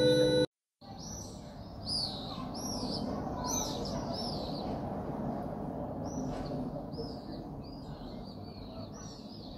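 Synth music cuts off about half a second in. After a brief silence, birds chirp repeatedly in short arched calls over steady outdoor background noise.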